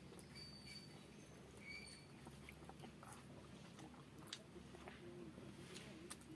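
Faint chewing of a person eating rice and vegetables, heard as scattered soft clicks and mouth sounds.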